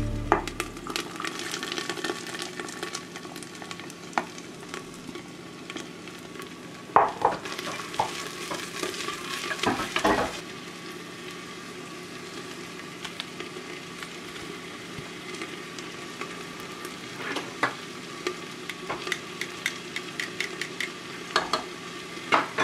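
Chopped peppers and onion sizzling in oil in a terracotta pot, with a steady frying hiss. A metal utensil stirs them, scraping and clinking against the pot in bursts, once in the middle and again near the end.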